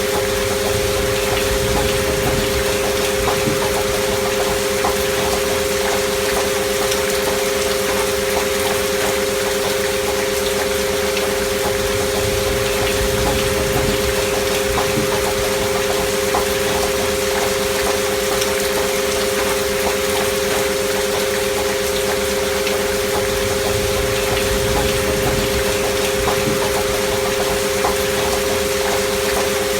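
Steady rain noise with two steady pure tones held beneath it: a binaural-beat healing-frequency track (528 Hz and 639 Hz tones with an alpha-wave beat) mixed over rain.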